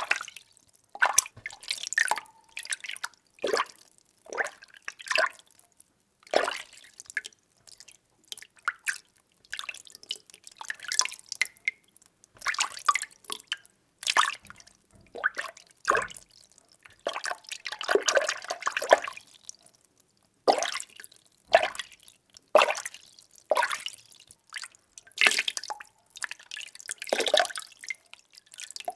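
Water being stirred by hand in a small container: irregular short sloshes and splashes about once a second, with a longer stretch of swirling about two thirds of the way through.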